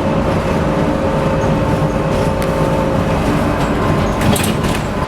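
BART train running, a loud steady rumble and rattle with a faint steady whine through it.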